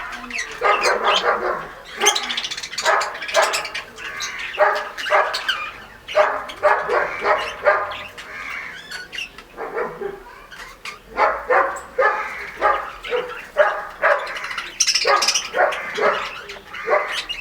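An animal calling over and over in quick runs of short, loud pitched calls, with brief pauses between the runs.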